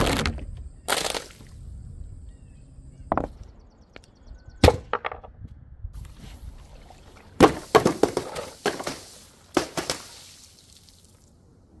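Things being smashed and crushed: a string of sharp cracks and crashes, single ones in the first few seconds, then a dense run of breaking impacts from the middle to near the end.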